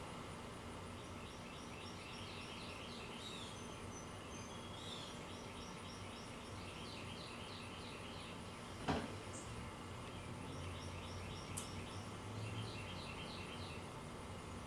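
Birds chirping in quick repeated phrases over a faint steady background hiss, with one sharp click about nine seconds in.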